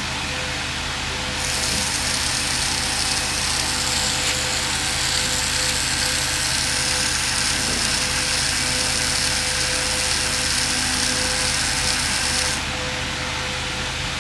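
A small electric power tool runs for about eleven seconds with a high, hissy whine, starting a second or so in and cutting off abruptly near the end.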